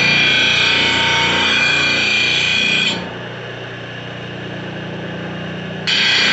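Bench drill press driven by a treadmill motor, its bit cutting into material with a loud, rough grinding noise. About three seconds in the cutting eases off, leaving the motor's steady hum. The cutting noise comes back suddenly near the end.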